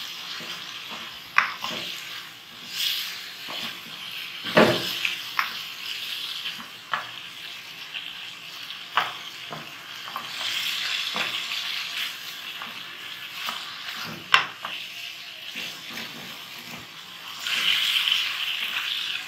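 Chicken with tomatoes and whole spices sizzling as it fries in a wok, the masala being browned. A wooden spatula stirs it, scraping and knocking against the pan now and then, with the sharpest knock about three-quarters through.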